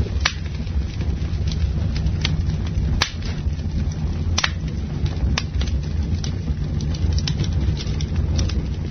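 Campfire burning: wood crackling with irregular sharp pops and snaps, a few of them louder, over a steady low rumble.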